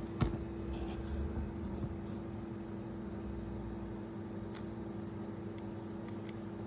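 A steady low electrical hum, with a sharp click and a few handling knocks near the start.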